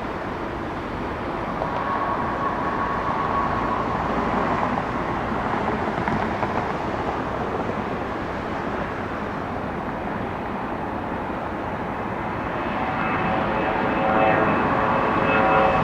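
Boeing 717-200 jet airliner's twin turbofan engines running at takeoff power: a broad rushing roar that grows louder over the last few seconds, with steady engine whine tones coming in near the end as the jet approaches.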